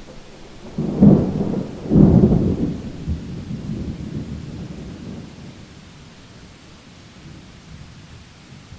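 A thunderclap over steady rain: two sharp crashes about a second apart, followed by rolling rumble that fades away over several seconds.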